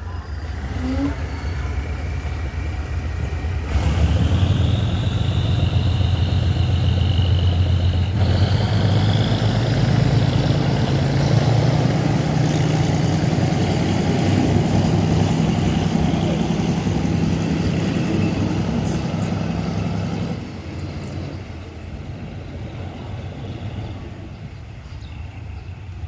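Diesel locomotive engine working under load as it pulls a train: a loud, steady low engine drone that steps up about four seconds in, rises a little in pitch near the middle, and drops away sharply a few seconds before the end.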